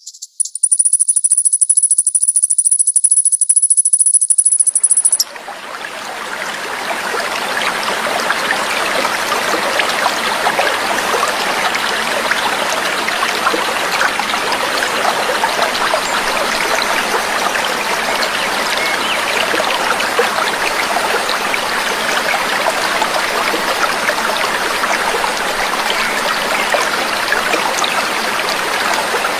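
Babbling, trickling water fading in about five seconds in and then running steadily. Before it, a high, steady, shrill trill cuts off suddenly.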